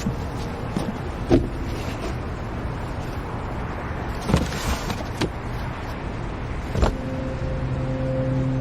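Steady vehicle noise, like a car running, with a few brief knocks; soft music comes in near the end.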